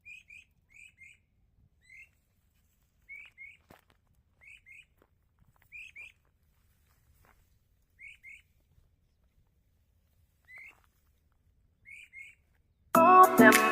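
A bird calling in short, high, upward chirps, mostly in pairs, repeated every second or two. Music comes in loudly near the end.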